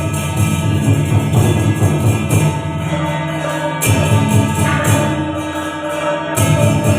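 Temple procession music: drums and cymbals beat a steady rhythm, about two cymbal crashes a second, under a sustained melody. The cymbals drop out for a couple of seconds in the middle.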